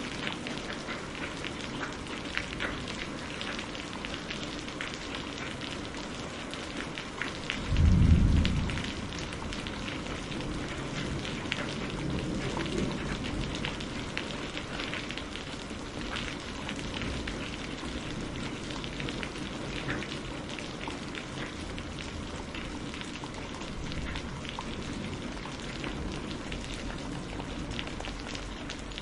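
Steady rain with many close drops pattering. About eight seconds in, a short low rumble of thunder stands out as the loudest sound, then fades.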